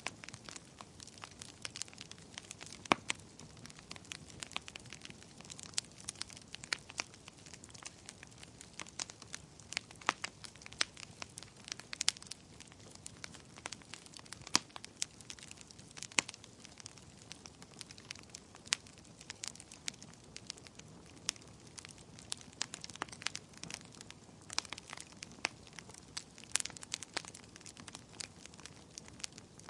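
Wood fire burning with a steady soft hiss and frequent sharp, irregular crackles and pops, several a second.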